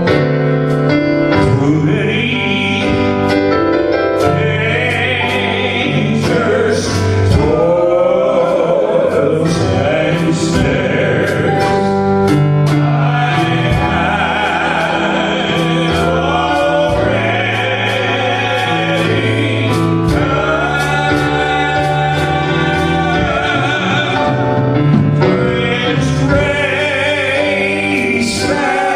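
A gospel hymn sung with piano accompaniment, the voices holding long, wavering notes.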